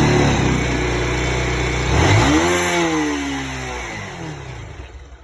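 A vehicle engine running steadily, then rising sharply in pitch about two seconds in and sliding back down as it fades away.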